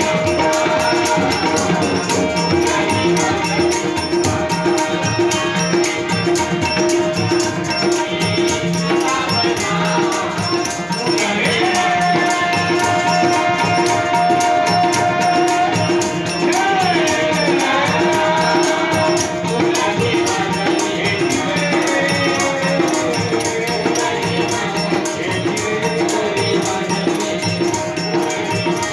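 Marathi devotional gaulan, a bhajan song, performed live. A sung melody rises and bends over a held drone, with steady rhythmic percussion and jingling rattles throughout.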